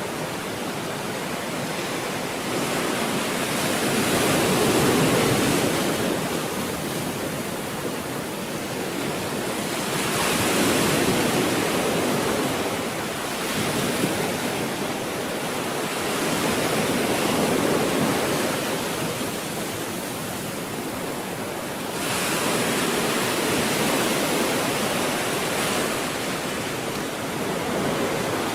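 Stormy sea waves breaking and washing in, a continuous rushing that swells and eases every few seconds as each wave comes in.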